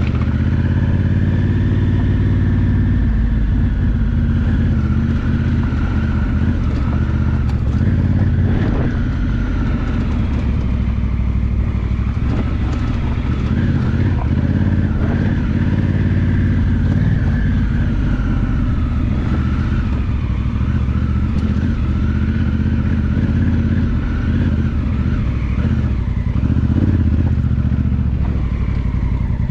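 Honda Africa Twin parallel-twin engine running under way on a rough dirt track, its pitch rising and falling as the throttle changes. A few short knocks and clatters come from the bike riding over the ruts, one about eight seconds in.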